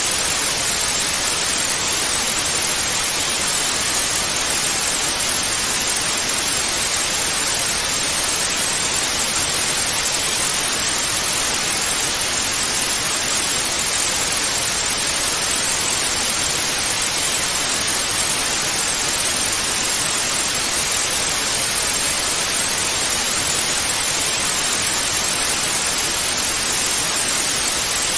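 Analogue television static: a steady, even hiss of white noise, unchanging throughout, with most of its energy in the upper middle range.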